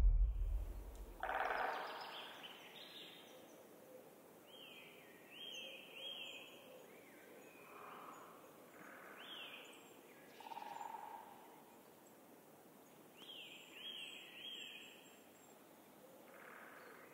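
Wild birds calling faintly: short rising-and-falling notes in runs of two or three, with lower single calls in between, spaced by pauses.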